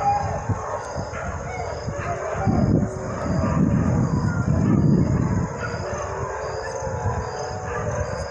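Dogs whining and howling, with a low rumble swelling for about three seconds in the middle, over a steady high-pitched drone.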